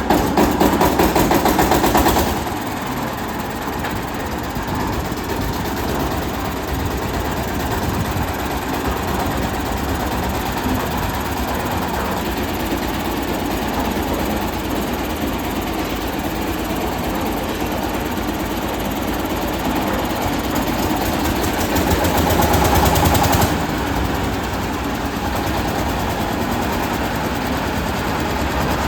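440 model concrete mixer running steadily with a fast, even mechanical chatter, louder for about the first two seconds and again briefly near the end.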